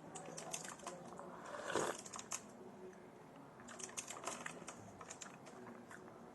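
Close-miked eating sounds: chewing tortellini with many small, quick mouth clicks, and one louder burst a little under two seconds in.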